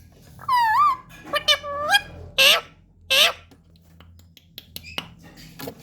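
A baby parrot calling: a few short, high, wavering calls in the first two seconds, then two harsh squawks, followed by a few faint clicks near the end.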